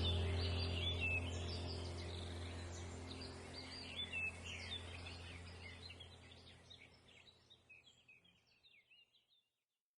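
Several birds chirping and calling over a steady low hum, the whole fading out gradually to silence near the end.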